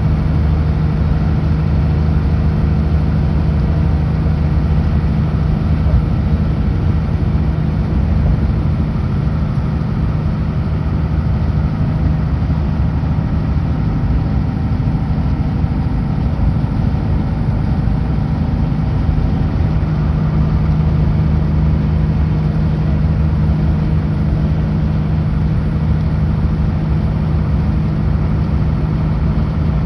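Kenworth W900L semi truck's diesel engine running steadily at highway speed, a low, even drone that holds level throughout.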